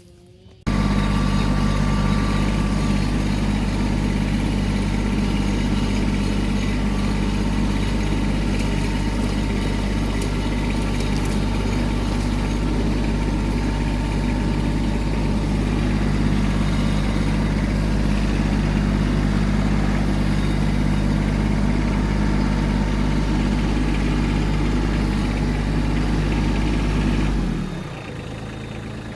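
Kubota tractor's diesel engine idling steadily. It cuts in abruptly about a second in and drops to a lower level near the end.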